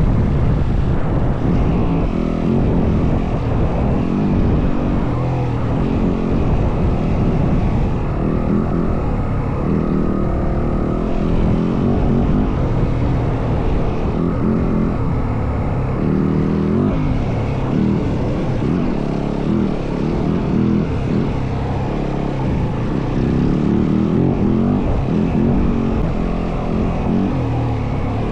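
Yamaha WR450F dirt bike's single-cylinder four-stroke engine running under way, its revs rising and falling, over a steady rush of noise.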